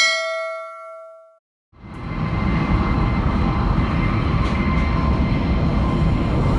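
A single bell-like chime rings and fades over about a second, then after a brief silence the steady rumbling running noise of a Chinese high-speed train sets in and holds.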